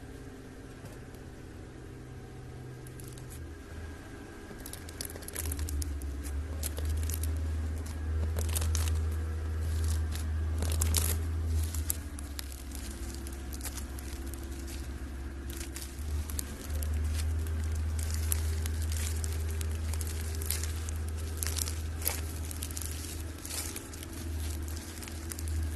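Slime being kneaded and stretched by hand, with many irregular crackling, popping clicks over a steady low hum.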